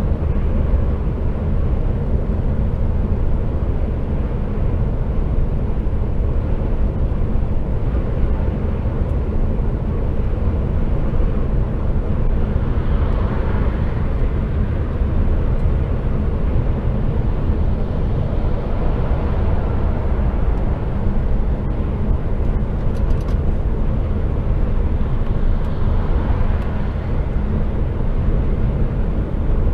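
HGV truck cruising on the motorway, heard from inside the cab: a steady diesel engine drone with tyre and road noise, swelling a little twice.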